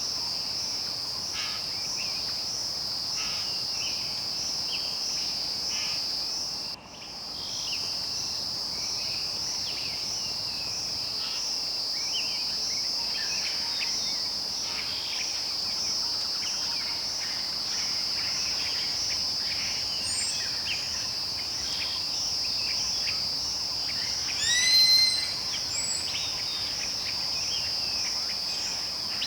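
Rainforest insect chorus: a steady, high, evenly pulsing trill, with scattered bird chirps beneath it. The sound dips out briefly about seven seconds in, and a louder bird call of a few quick rising notes stands out near the end.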